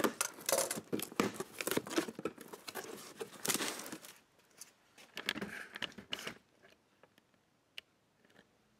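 Cardboard box being opened by hand: flaps pulled open with rustling, crinkling and light knocks of the packing. The handling is busiest for about four seconds, with another short flurry after that, then only a few faint clicks.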